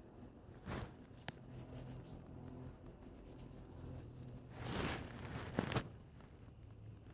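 Close handling noise: short scratchy rubs and rustles of hands and clothing against the microphone, with a small click about a second in and the two loudest rubs near the end, over a faint steady low hum.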